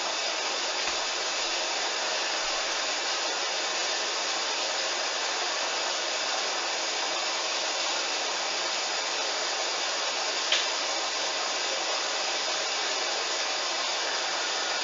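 Steady rushing noise from a Hoover washing machine mid-cycle, even and unbroken, with one sharp click about ten and a half seconds in.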